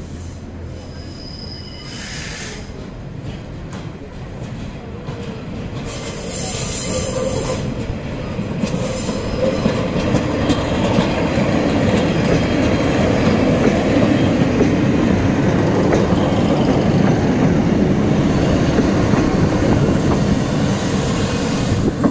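Class 143 Pacer and Class 150 Sprinter diesel multiple units running through a level crossing: wheels and engines grow louder over the first ten seconds or so as the train approaches, then hold steady and loud as the cars pass close by.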